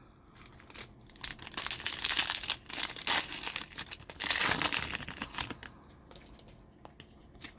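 Crinkling and tearing of a trading-card pack wrapper being ripped open, in a burst of crackle lasting about four seconds, then a few faint rustles.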